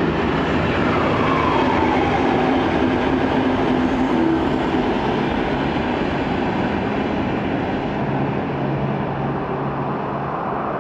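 V/Line VLocity diesel multiple unit passing: a steady drone from its diesel engines with rail rumble. A whine drops in pitch over the first couple of seconds as the train goes by.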